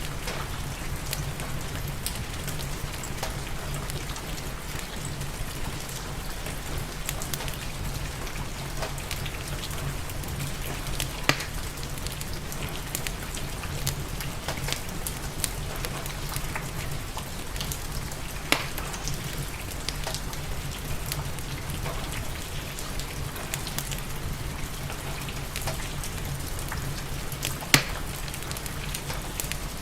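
Steady rain with a fireplace's wood fire crackling over it: scattered small ticks and three sharper pops, about 11, 18 and 28 seconds in.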